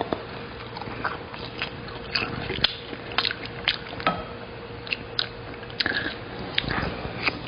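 A person eating close to the microphone: irregular chewing and biting, with frequent short sharp clicks.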